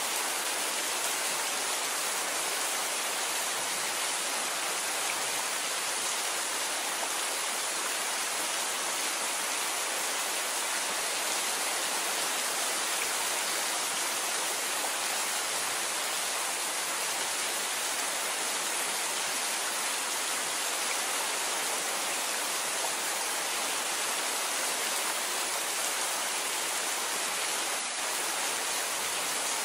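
Steady, heavy rain falling: a dense, even hiss with no separate drops or thunder standing out, dipping briefly near the end.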